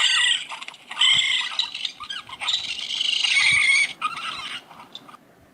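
Dinosaur sound effect: a few high, shrill screeching calls with wavering pitch over about four and a half seconds, then it stops.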